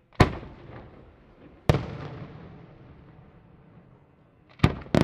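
Aerial firework shells bursting: a sharp bang about a quarter second in, another about a second and a half later, then two close together near the end. Each bang trails off in a long rolling echo.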